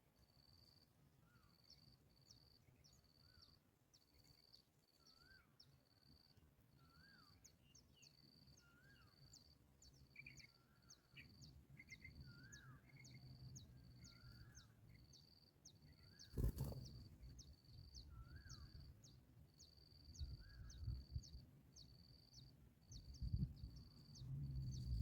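Faint outdoor ambience: an insect chirping over and over at one high pitch, about one or two chirps a second. Soft bird chirps sound behind it, and there is a single sharp knock about two-thirds of the way through.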